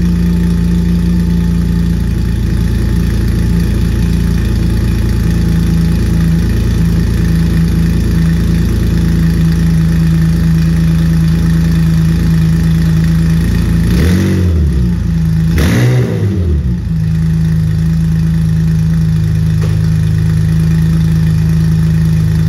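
Air-cooled 3.6-litre Varioramm flat-six from a Porsche 993 idling steadily just after a cold start. About two-thirds of the way through, the throttle is blipped twice in quick succession, and the engine then settles back to a smooth idle.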